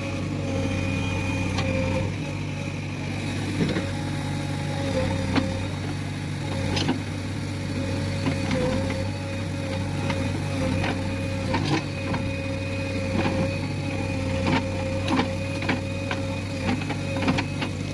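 Backhoe loader's diesel engine running steadily with a held hydraulic whine, and scattered sharp knocks and clanks of the bucket working a load of coal.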